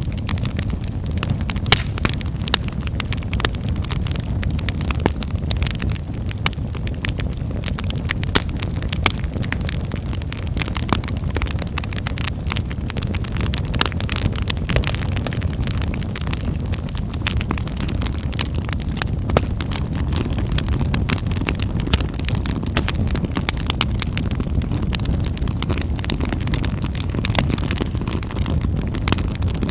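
Wood fire burning in a fireplace, a steady low rumble of flames with frequent sharp crackles and pops.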